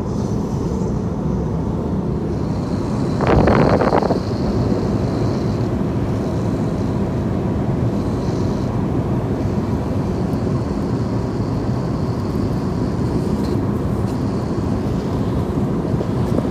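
Steady cabin noise of an airliner in flight, the drone of engines and airflow heard from a passenger seat. A short, louder rush of noise stands out about three seconds in.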